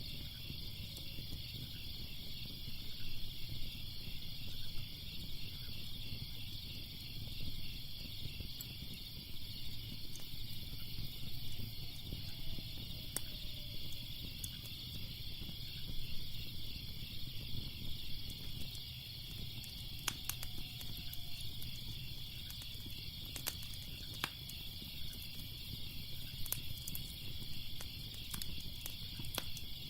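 Crackling fire with scattered sharp pops, more frequent in the second half, over a steady chorus of crickets chirping and a low rumble.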